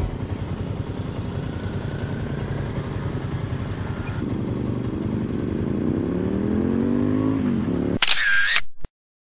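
A Hyosung GT250R V-twin sport motorcycle accelerating as it approaches, its engine note climbing steadily for about three seconds and dropping just before the end, over the low idle of a scooter. Near the end a short bright transition sound effect plays, then the sound cuts off suddenly.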